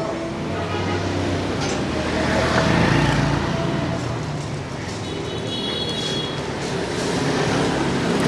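Busy city street traffic: engines of passing vehicles, louder as one passes about two to three seconds in.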